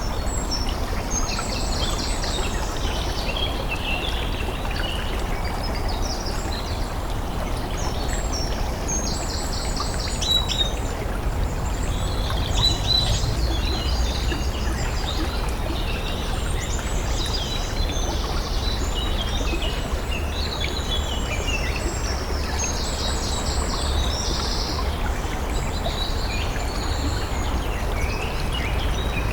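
Many small birds chirping and trilling over a steady low rumble of outdoor background noise.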